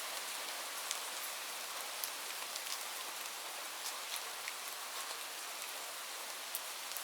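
Steady rain falling: an even hiss with many individual drops ticking through it at irregular moments.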